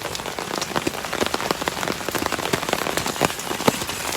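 Hailstones and rain pelting hard surfaces during a hailstorm: a dense, steady rush dotted with many sharp, irregular ticks of individual stones striking.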